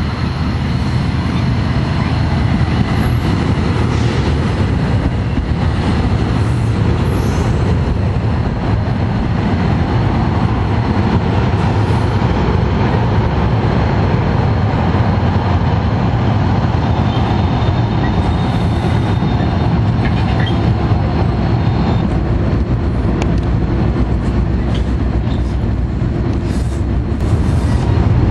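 NJ Transit commuter train of bilevel coaches passing close by at speed: a loud, steady rumble of steel wheels on the rails that carries on without a break.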